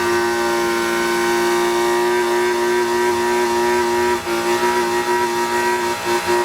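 BMW E36 Compact's engine revved up and held at high, steady revs, ready to launch. The revs dip briefly about four seconds in and turn choppy near the end.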